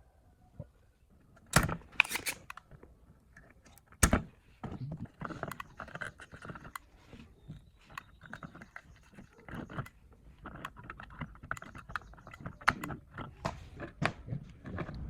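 Small hard objects being handled, with a few sharp knocks in the first four seconds and then a steady run of light clicks, taps and scraping.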